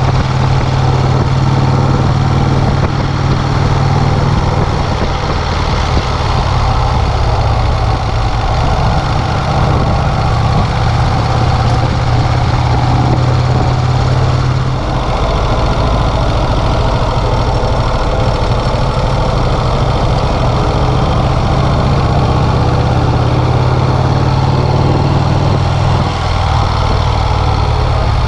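1951 Vincent Rapide's 998 cc V-twin engine running steadily on the road, its note changing briefly about halfway through.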